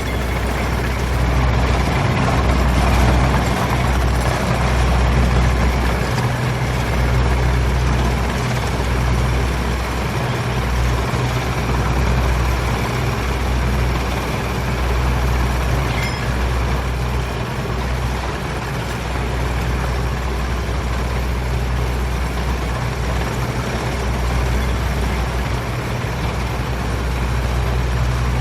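Vehicle engine running steadily: a low hum under an even wash of noise.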